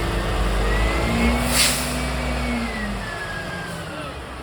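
Mack garbage truck's diesel engine revving up. A short, sharp burst of air hiss comes about a second and a half in, then the engine note falls away and fades.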